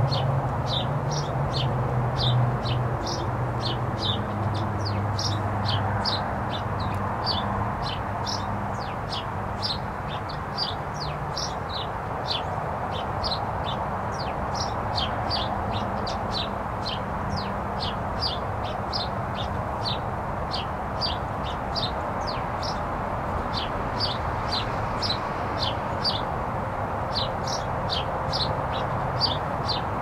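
A small songbird chipping over and over, short sharp chirps about two a second, kept up the whole time. A low steady hum sits under it and fades out over the first ten seconds or so.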